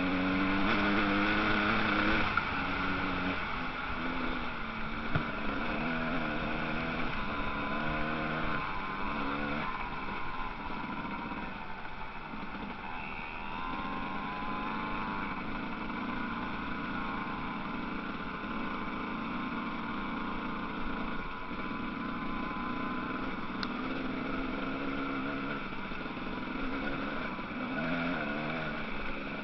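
Motocross bike engines revving, their pitch rising and falling as they accelerate and back off, loudest in the first couple of seconds.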